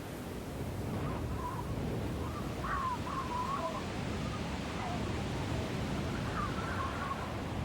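Strong wind in a snowstorm, a steady low rushing noise. Three times it is joined by short, wavering high-pitched cries or whistles.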